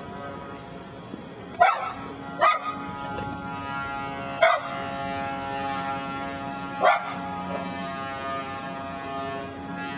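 A dog barking four single barks, spaced one to two seconds apart, over a steady hum.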